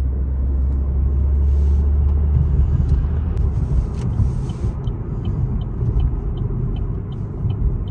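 Low, steady engine and road rumble heard from inside a moving car. A light, regular ticking at about two or three clicks a second joins in over the last few seconds, like a turn signal.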